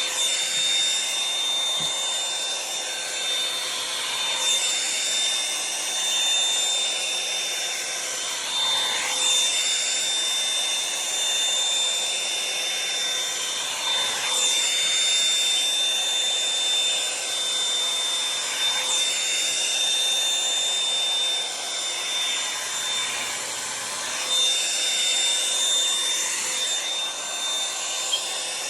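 Revlon One-Step hot-air dryer brush running steadily, a rushing blow with a high whine, its sound sweeping up and down about every five seconds as it is drawn through the hair.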